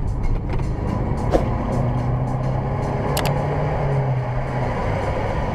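Car on the move: steady engine and road rumble with a low hum, broken by a sharp click about a second in and another about three seconds in.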